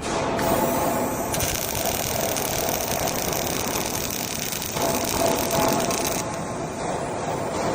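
Robotic arc welder's welding arc crackling steadily. It strikes suddenly at the start, then holds as a dense, even sizzle.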